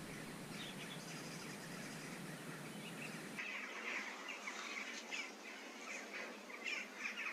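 Small birds chirping and twittering over a steady background hiss, the chirps growing busier from about three and a half seconds in.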